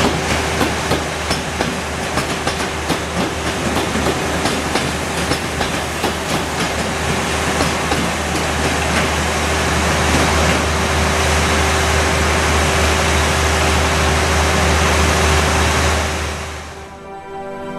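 A train passing close by, its wheels clattering rapidly over rail joints under a steady rumble and hum of the running train. The sound fades away near the end as music comes in.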